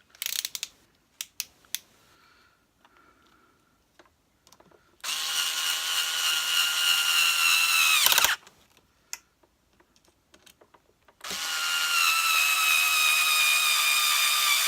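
Power screwdriver driving screws, in two runs of about three and four seconds, the motor note sinking a little under load before each stop, after a few handling clicks of plastic parts.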